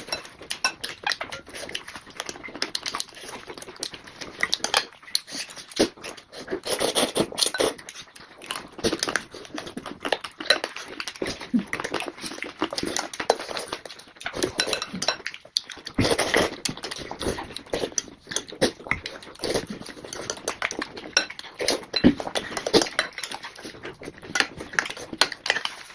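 Close-up eating sounds: wet chewing and crunching of chicken on the bone and noodles, a dense run of irregular crunches and smacks with a few brief pauses.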